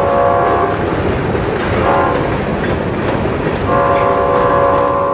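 Grain hopper cars of a freight train rolling across a steel railroad bridge with a steady rumble. A several-note train horn sounds over it: at the start, briefly about two seconds in, and again in a long blast from a little before four seconds on.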